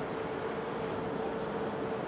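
Microwave oven running with a steady hum and one steady tone, heating a can of deodorant.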